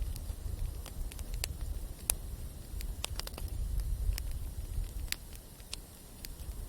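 Campfire crackling, with sharp irregular pops and snaps over a low rumble that eases off near the end.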